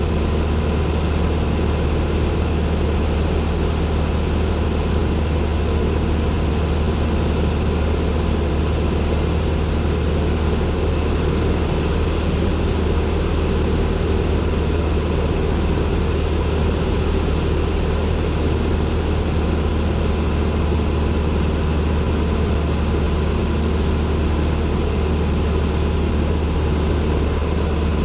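Cessna 172N's four-cylinder Lycoming engine and propeller running steadily with a constant low drone, heard from inside the cockpit.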